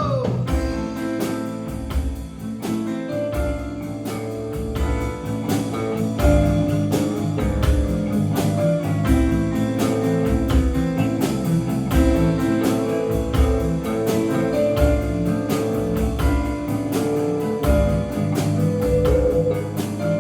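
Live band playing an instrumental passage between sung verses: guitar over a steady drum beat with a pulsing bass line.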